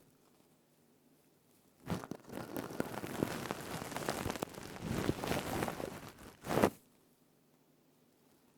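Stainless steel scrubber rubbed and squeezed close to the microphone: a dense crackling, crinkling noise that starts about two seconds in, swells to a louder burst and stops suddenly near the end.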